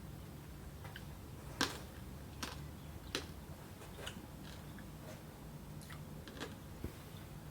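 About six sharp, irregular clicks and taps, the loudest about one and a half seconds in, over a low steady hum, typical of kitchen work.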